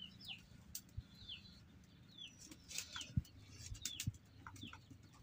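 A bird calling in short, falling chirps, about one a second. A few soft knocks are heard alongside.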